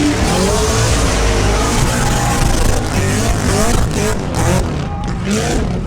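A loud V8 car engine revving during a burnout, over a dense rushing noise from the spinning tyres, with pitch rising and falling as the throttle is worked.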